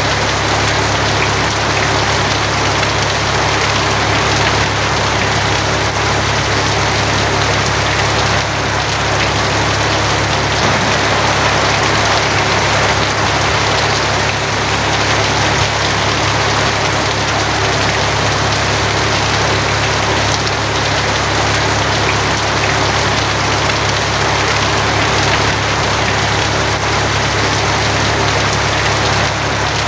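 Steady heavy rain on a tin roof: an even, unbroken hiss with a constant low drone underneath.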